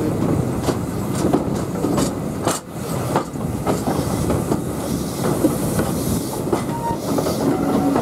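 Steam-hauled train running along the track, heard from on board: steady rumble with the wheels clattering over rail joints, and a brief squeak near the end.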